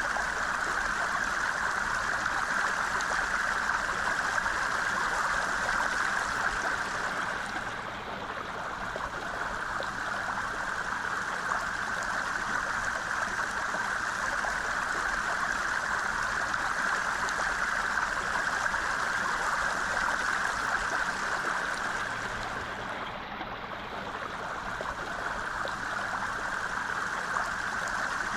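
Mountain stream water rushing and babbling steadily over rocks, easing for a moment twice, about eight seconds in and again near twenty-three seconds.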